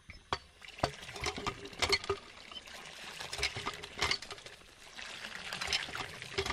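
Water pouring and splashing, with irregular small clicks and taps.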